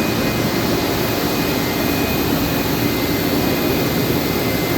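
Mori Seiki SV-503 CNC vertical machining center running under power: a steady mechanical hum with a faint, steady high whine over it.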